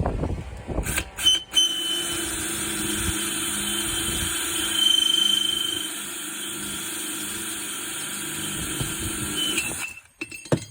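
Electric drill fitted with a ceramic bit boring a drain hole through the bottom of a flower pot: a few clicks as the bit bites, then a steady run with a high squeal about halfway through, cutting off sharply near the end.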